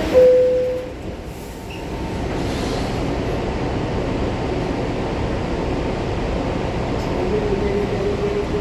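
R62 subway car running on the 3 line: a short tone in the first second, then the rumble of wheels and motors builds over about a second and settles into a steady run. A faint steady tone joins the rumble near the end.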